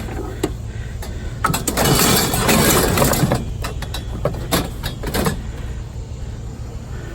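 Vehicle engine running steadily at idle, with stretches of rustling and knocks from objects being handled, the longest about one and a half to three and a half seconds in.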